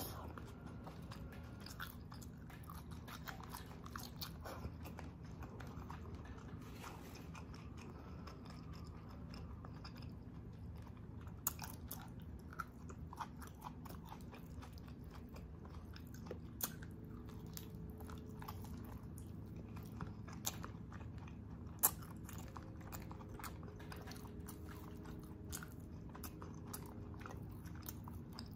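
Close-up chewing and wet mouth sounds of someone eating soft braised oxtail and rice by hand, with scattered sharp smacks and clicks; a faint steady hum underneath.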